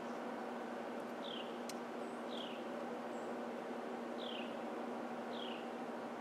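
A songbird repeating a short down-slurred whistle four times, one to two seconds apart, over a steady low hum and hiss.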